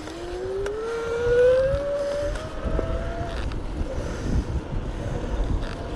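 Electric bike motor whining as the bike pulls away from a stop, its pitch rising smoothly for about three seconds and then holding steady, with wind rumbling on the microphone.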